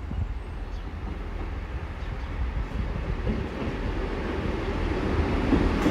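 Train approaching through the station, its rumble growing steadily louder.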